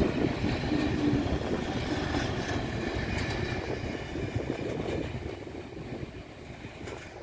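Freight train's covered and flat wagons rolling along the rails, a steady rumble that fades as the end of the train moves away.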